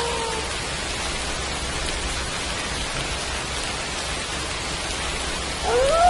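Steady rain falling, as the end of one wolf howl slides down and fades just after the start, and a new howl rises in near the end.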